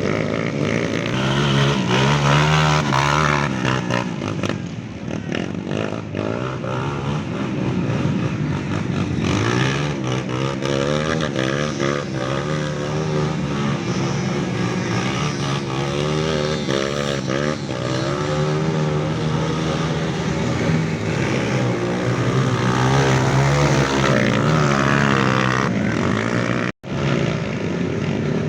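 Off-road dirt bike engines revving hard in mud, the pitch wavering up and down as the throttle is worked. The sound cuts out for an instant near the end.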